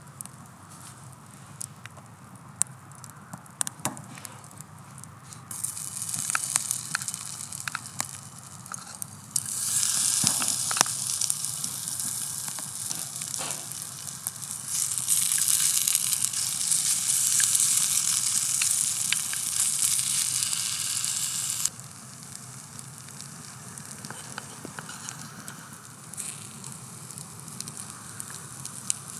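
Food sizzling in a hot pan over a crackling wood campfire. The sizzle comes in about five seconds in, grows louder twice and drops back abruptly near the end, leaving the fire's crackle and pops.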